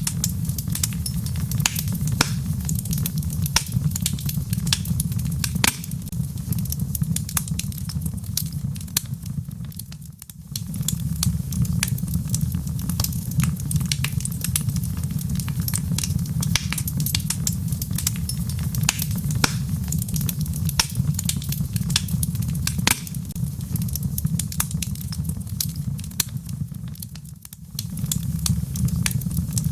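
Wood fire burning in a fireplace: logs crackling with many sharp pops over a steady low rumble of the flames. The sound briefly dips twice.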